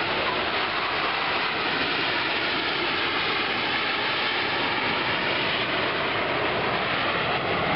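Steady jet-engine roar from a military jet flying past, with faint slowly shifting tones in the rush.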